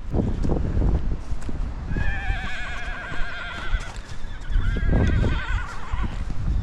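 Horses whinnying loudly: a long wavering neigh about two seconds in, then another sliding downward about four and a half seconds in. Strong wind buffets the microphone throughout.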